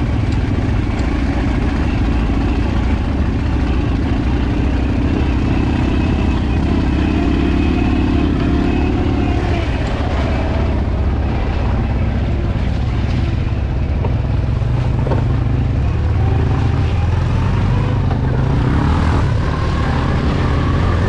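Enduro motorcycle running under way, a continuous low rumble whose pitch shifts a little with the throttle.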